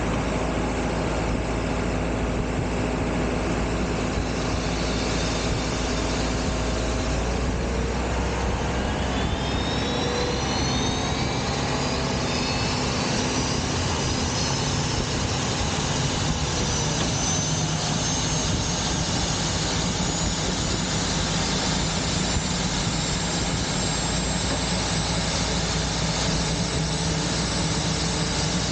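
Embraer 175's turbofan engine spooling up at start: a high whine rising steadily in pitch from about a third of the way in and levelling off near the end, over a steady roar of jet and ramp noise.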